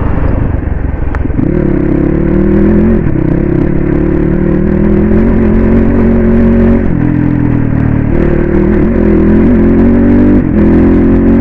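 Crossfire 250 dirt bike engine pulling under throttle while the bike is ridden, its pitch climbing and then dropping at each gear change, about five times.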